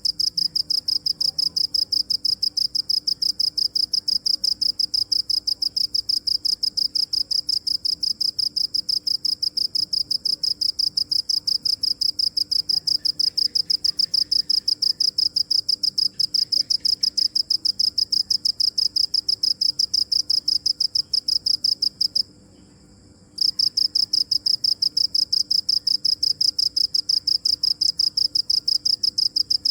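A cricket chirping in a fast, even train of high-pitched pulses. It stops once for about a second, then carries on at the same rate.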